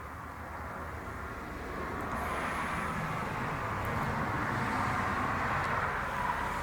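A road vehicle passing, its engine and tyre noise swelling over several seconds and easing slightly near the end.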